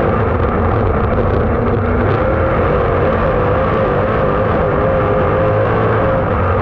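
Super late model race car engine running hard at steady high revs, its pitch wavering slightly up and down.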